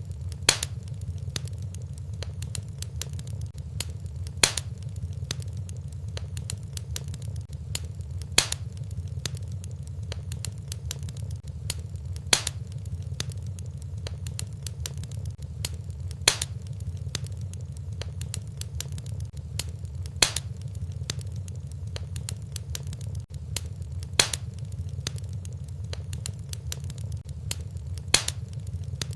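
Fireplace fire crackling over a low steady rumble, with a sharper pop about every four seconds.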